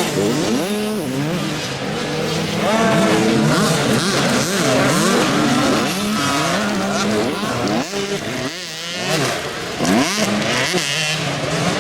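Several motocross dirt bikes racing on the track, their engines revving up and down in overlapping rises and falls as riders throttle through the course.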